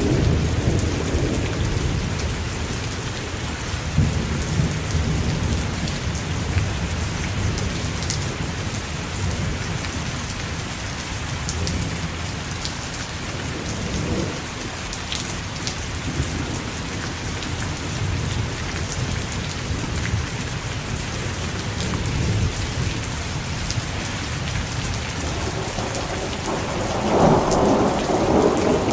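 Steady rain with low thunder rumbling in the distance; a louder roll of thunder builds near the end.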